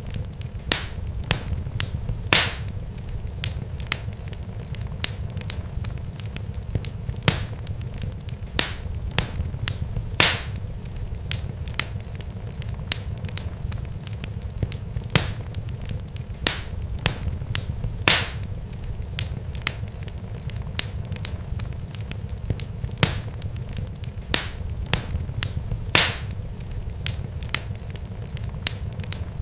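Irregular sharp crackles and pops, a few much louder than the rest every several seconds, over a steady low rumble: a burning wood fire.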